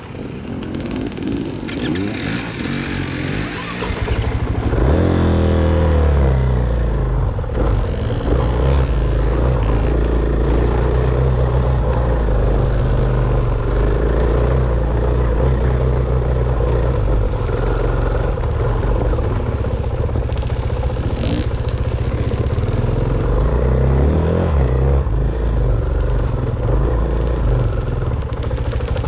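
Dirt bike engine running hard on a trail ride, revving up about five seconds in, then holding a steady, busy note with small throttle changes.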